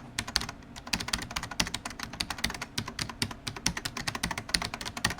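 Computer keyboard being typed on: rapid, irregular key clicks, several a second.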